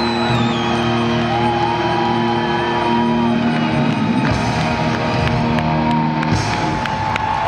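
Live rock band with symphony orchestra holding long sustained chords, while an electric guitar bends and slides notes high above. The low chord cuts off about six seconds in as another held note carries on.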